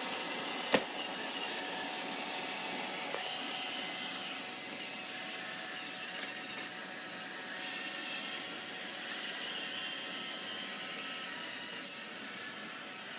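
Roomba robot vacuum running, a steady whir from its motor and brushes, with one sharp knock less than a second in.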